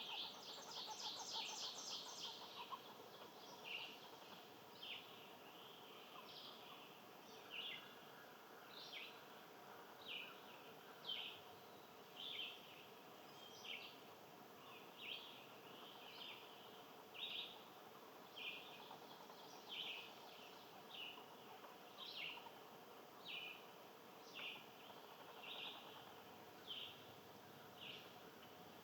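A bird calling: a quick run of rapid high notes at the start, then a short high call repeated steadily about once a second.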